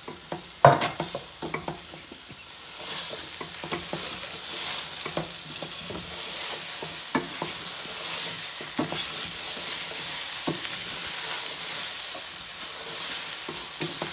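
Chopped lemons sizzling in hot mustard oil and spices in a stainless steel pot over a low gas flame, stirred with a wooden spoon. A cluster of knocks comes about a second in, the sizzle grows louder from about three seconds in, and scattered knocks from the stirring run through it.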